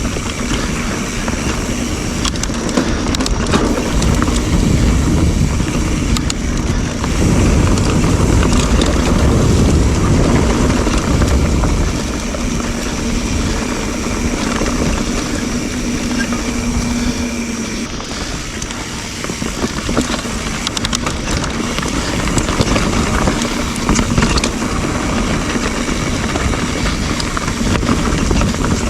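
Trail noise from a full-suspension mountain bike being ridden on dirt singletrack: tyres rolling over dirt and roots, with frequent knocks and rattles from the bike and wind on the microphone. It gets louder for a few seconds about a third of the way in.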